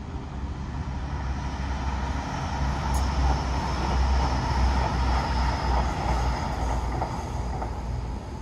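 GWR Class 800 train passing on a far track: a steady rumble of wheels on rail that builds to its loudest midway, then eases as it goes by. A faint high whine rides on top, and there is one sharp click about three seconds in.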